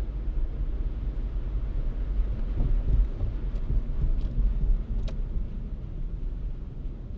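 Steady low rumble of a car driving, from road and engine noise. A few faint ticks occur around the middle.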